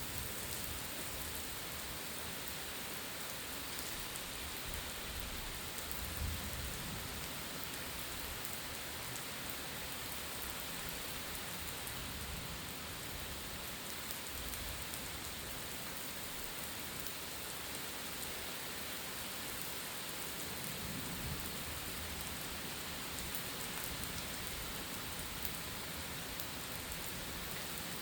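Steady heavy rain falling during a thunderstorm, with brief low rumbles about six and twenty-one seconds in.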